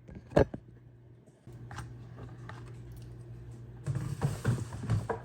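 Plastic household containers being handled. There is a sharp knock about half a second in, then scattered light clicks, and a stretch of rustling with several knocks near the end.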